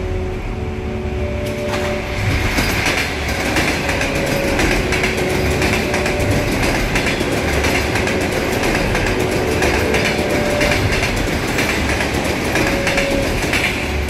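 Suburban electric train passing close by. The rush of noise swells about two seconds in and holds as the carriages go past, with the wheels clacking over the rail joints.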